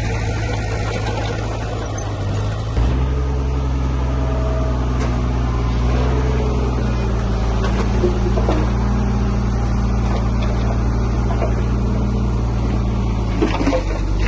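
Heavy earthmoving machine's diesel engine running steadily; about three seconds in its note changes abruptly and grows a little louder.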